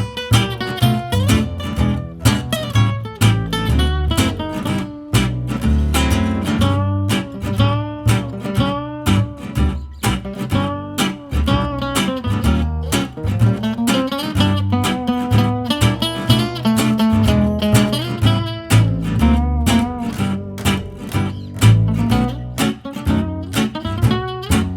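Instrumental break of a swing-jazz tune: acoustic guitar strumming a steady beat over a bass line, with a melody line played on top.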